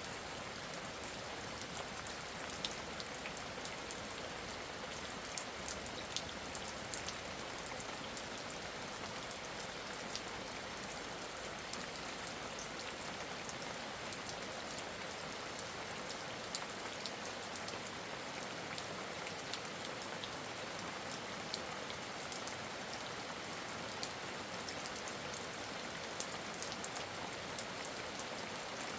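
Steady rain falling, an even hiss dotted throughout with many sharp ticks of individual drops striking a surface.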